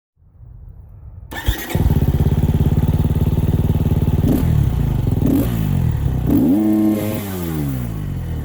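Husqvarna FE250 single-cylinder four-stroke motorcycle engine starting up about a second and a half in, then running and revved several times, the pitch rising and falling with each blip.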